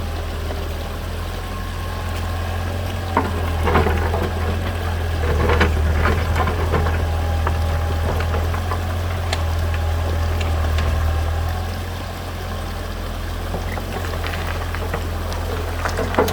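Tractor engine running steadily at a low pitch, with scattered clacks and knocks of stones being loaded, most of them between about three and six seconds in.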